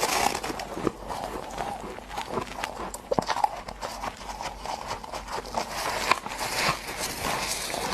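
Freezer frost ice being chewed close to the microphone: an irregular run of many short crunches and crackles.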